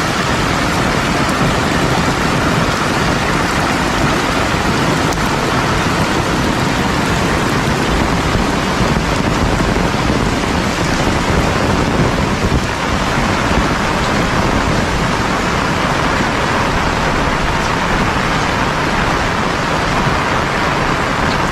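Heavy rain pouring down steadily, a dense unbroken hiss of downpour.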